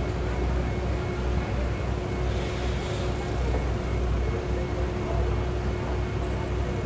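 Steady low rumble of distant engines and machinery with a constant hum running through it, and a brief hiss about two and a half seconds in.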